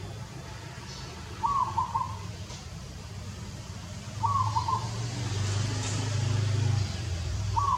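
A bird calling: a short call of a few quick notes, repeated three times about three seconds apart, over a low steady hum that grows louder for a few seconds in the middle.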